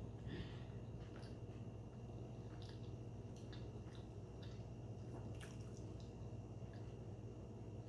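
A person chewing a mouthful of sushi roll: soft, wet mouth clicks and squishes at irregular intervals, over a steady low hum.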